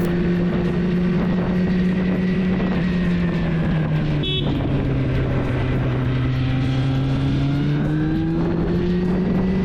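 Motorcycle engine running under way at a steady pitch. About four seconds in the pitch drops, as at a gear change, then it climbs slowly again as the bike speeds up.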